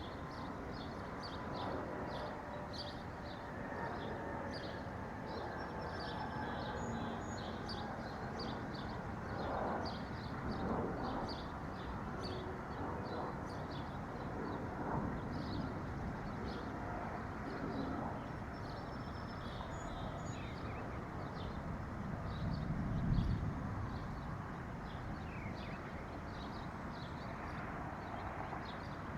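Many small birds chirping in quick, short repeated notes over a steady low background hiss, with a brief louder low rumble about three-quarters of the way through.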